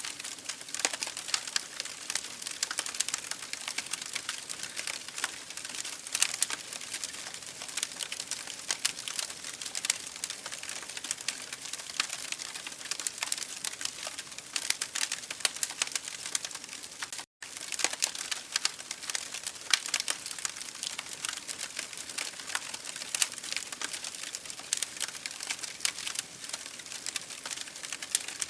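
Wood fire in an open fireplace crackling steadily, with dense irregular pops and snaps over a soft hiss. The sound cuts out for a split second a little past halfway.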